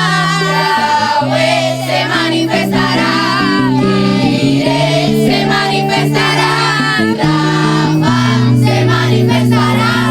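A group of voices singing a Christian worship song over held low accompaniment notes that change every second or so.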